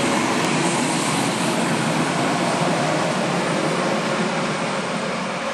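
Steady rushing and rumbling running noise of a moving train, heard from on board; it eases slightly near the end.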